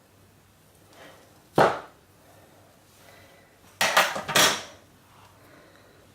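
Knife or soap cutter knocking down onto a cutting board while cutting a hardened block of curd soap into bars: one sharp knock about a second and a half in, then a quick cluster of three or four knocks and clatter near the middle.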